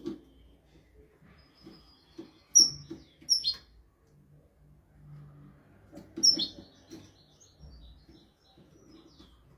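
European goldfinch singing in short, broken phrases: scattered high twitters, with three loud, sharp calls a little past two and a half seconds, at about three and a half seconds, and about six seconds in. Soft low knocks sound between the phrases.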